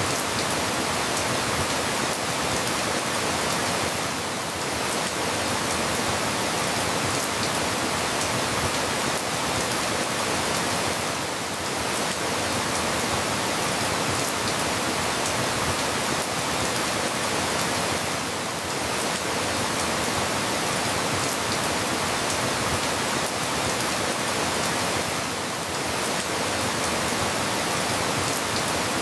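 Steady, even rain with a slight dip in loudness about every seven seconds, as from a looped recording.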